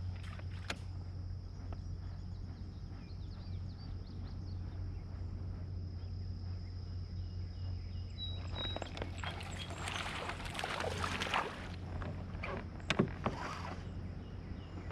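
Water splashing and sloshing around a fishing kayak, strongest in a stretch about two-thirds of the way through, over a steady low hum, with two or three sharp knocks near the end.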